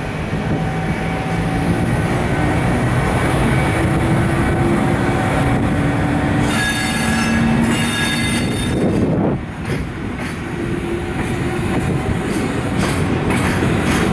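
Container freight train of flatcars rolling past, with a steady rumble of wheels on rail and high-pitched wheel squeal, loudest from about six to nine seconds in.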